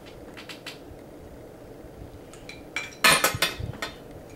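Metal bike parts and tools clinking and clanking as they are handled during assembly of a balance bike's neck and handlebars: a few light clicks in the first second, then a louder cluster of clanks about three seconds in.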